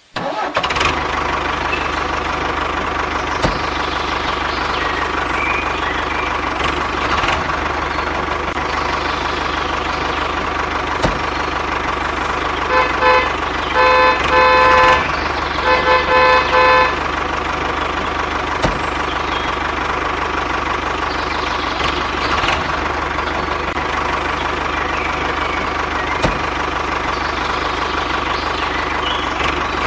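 Truck engine running steadily, with a run of about five short horn blasts over some four seconds near the middle.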